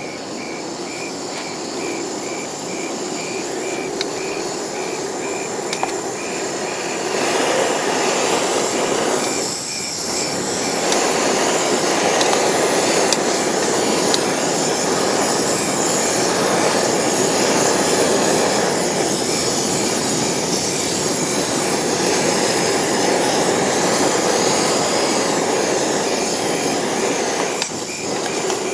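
Heavy rain and strong wind making a dense, steady rush that swells and eases in gusts, dipping briefly twice.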